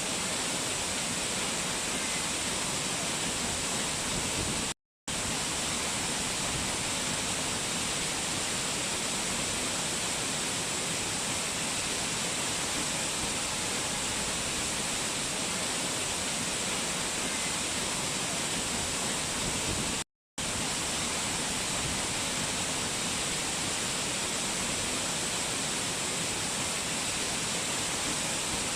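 Fast-flowing water rushing steadily, an even hiss strongest in the high range. It cuts out completely for a split second twice, about five seconds in and again about twenty seconds in.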